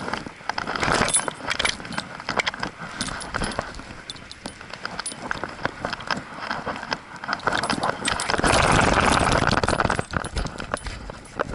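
A dog's metal collar tags jingling and clinking as it moves, with the scuffing of its running paws. About eight seconds in there is a louder rush of noise lasting a second or two.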